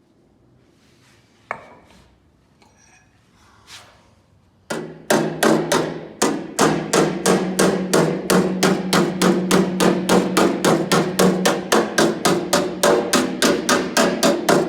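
Rapid, even hammering on a car door's sheet-steel panel, about four blows a second, the panel ringing with a steady metallic tone under the strikes. It begins about five seconds in, after a single knock.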